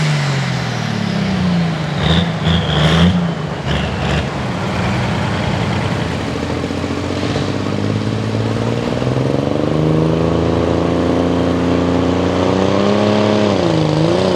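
Diesel pickup truck engine running hard under load in a pull, its pitch falling at first, with a few sharp cracks around two to four seconds in, then climbing steadily and dipping briefly near the end.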